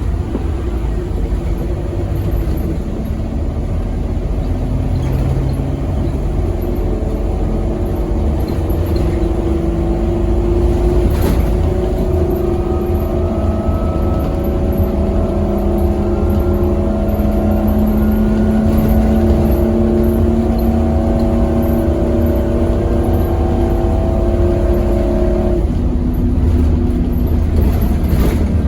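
Scania K270UB Omnilink bus's 9-litre five-cylinder diesel engine pulling steadily under load, a heavy low rumble with engine notes that climb slowly and then shift near the end.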